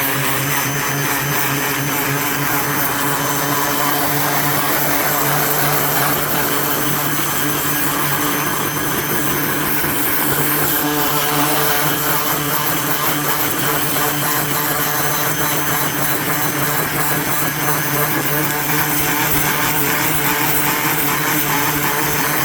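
Ryobi 1900 PSI electric pressure washer running steadily, its motor and pump humming under the hiss of water spraying from a rotating turbo nozzle.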